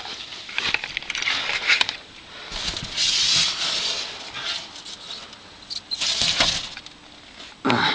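Scuffing, rustling and scraping of a person crawling about in dirt, coming in irregular bursts with scattered clicks.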